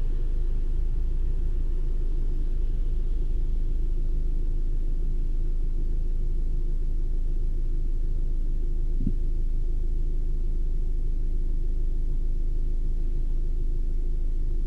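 Turbocharged 2.0 TSI four-cylinder of a VW Passat B8, fitted with an aftermarket intake, idling steadily: a low, even hum heard inside the cabin. A single short knock about nine seconds in.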